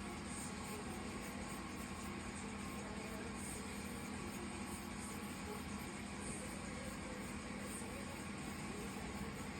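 Steady low hiss with a constant faint hum underneath and no distinct events.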